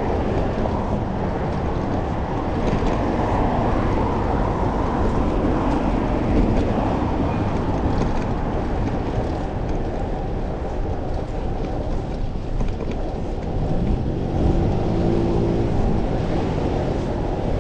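Steady wind rush on the microphone of a moving bicycle, with road traffic around it; a motor vehicle's engine hum rises and passes about fourteen seconds in.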